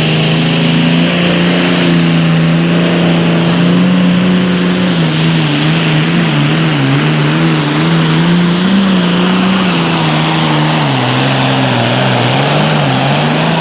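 Turbocharged diesel Super Farm pulling tractor running flat out under load. The engine note holds steady at first, then wavers up and down from about five seconds in as the revs rise and fall.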